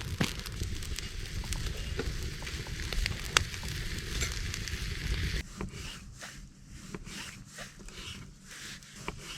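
Fire crackling, with sharp pops over a steady hiss. About five and a half seconds in the sound changes abruptly to quieter, sparser crackling.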